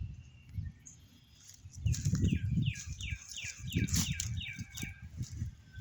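A songbird singing a run of about nine repeated down-slurred whistled notes, about three a second, starting about two seconds in, over low rumbling and thumps.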